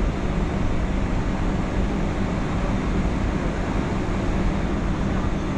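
Steady cabin noise inside a Boeing 757-200 on the ground after landing: an even, low rumble with a constant hum, from the engines and the air systems.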